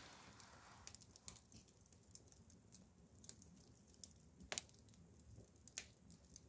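Bonfire of burning wood crackling faintly, with scattered sharp pops and snaps at irregular intervals.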